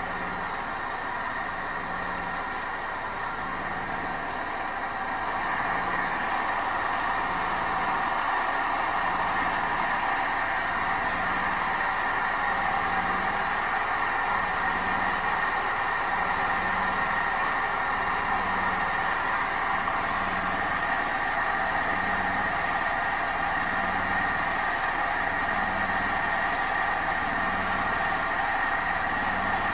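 Small 14cc water-cooled, pressurised twin-cylinder gamma Stirling engine running steadily under gas heat: a steady hiss over a low, evenly pulsing hum, growing a little louder about six seconds in.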